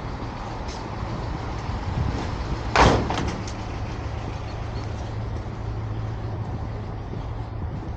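City street traffic: a motor vehicle's engine running steadily, with one sudden loud knock or thump about three seconds in.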